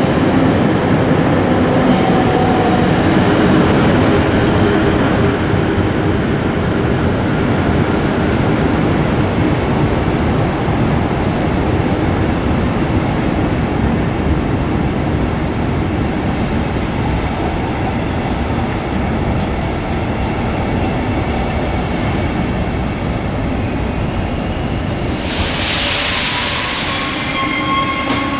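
Locomotive-hauled passenger train pulling into a station platform: a steady heavy rumble of the coaches rolling past, then the brakes squealing in high, steady tones as it slows to a stop, with a short loud hiss about 25 seconds in.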